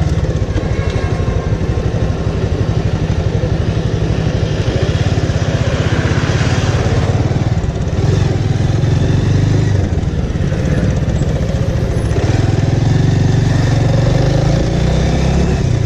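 Bajaj Avenger motorcycle's single-cylinder engine running steadily while riding along a road.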